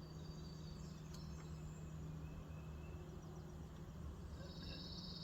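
Quiet background with a steady low hum and a brief spell of high, rapid chirping near the end.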